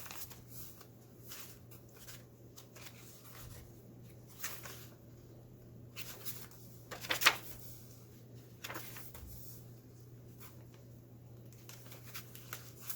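Paper pages of a handmade junk journal being turned and handled: intermittent rustles, flicks and light taps, with the sharpest one about seven seconds in.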